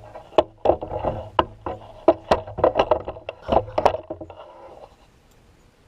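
Handling noise of a tripod-mounted camera being moved: a run of irregular clicks and knocks that stops about four seconds in.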